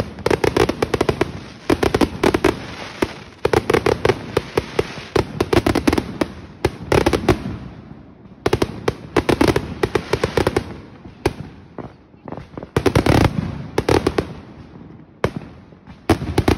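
Aerial fireworks bursting close by in dense volleys of rapid bangs and crackles, with brief lulls about eight and twelve seconds in.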